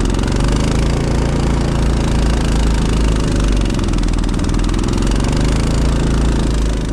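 Honda snowblower's engine running steadily.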